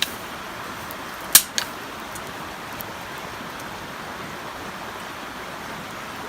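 Steady rushing of a nearby river, with a hardwood campfire giving a sharp pop about a second and a half in, a smaller one just after, and a few faint crackles later.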